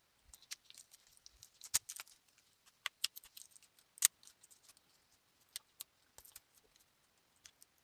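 Small metal parts clinking and jingling as they are handled, with a few sharper clicks, the loudest about four seconds in.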